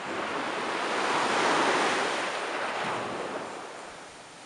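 Ocean surf: a wave washing up the shore, swelling to its loudest about a second and a half in and fading away near the end.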